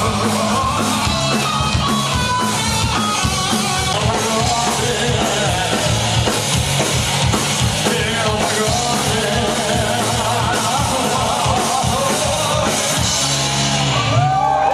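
Punk rock band playing live and loud, drum kit and bass under the guitars.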